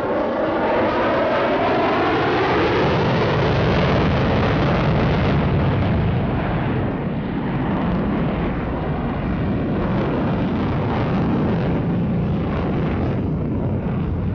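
Loud jet noise from the F-35A Lightning II's single afterburning turbofan during its flight demonstration, with a sweep rising in pitch over the first few seconds, then a steady, heavy rumble.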